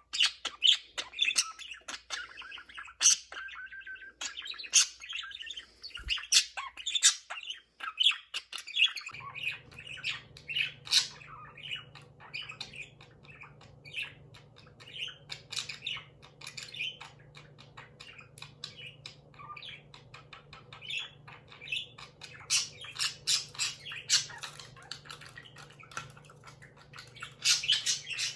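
Pet budgerigars chattering: a run of quick chirps, warbles and squawks. A steady low hum joins about a third of the way in.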